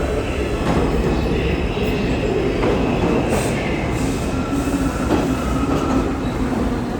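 New York City Subway R62A train running on the rails: a steady, loud rumble of wheels and motors, with faint high squealing tones in places.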